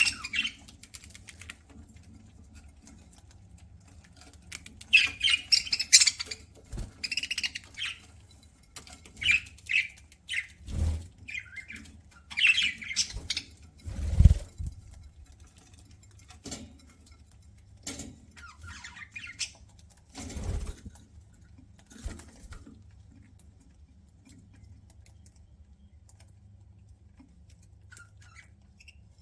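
Pet budgerigars chirping in short, high bursts, with a few sharp knocks in between; the chatter thins out near the end.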